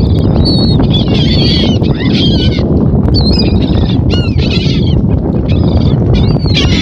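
Many birds calling over one another in short, chattering, up-and-down calls, above a loud, steady low rumbling noise.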